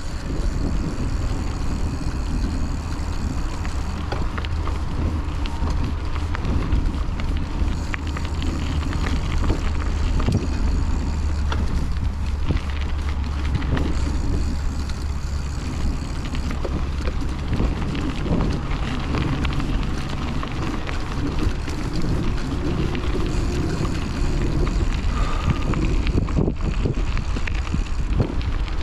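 Wind buffeting a chest-mounted action camera's microphone, with the rumble and many small rattles of a hardtail mountain bike ridden over a rough off-road trail.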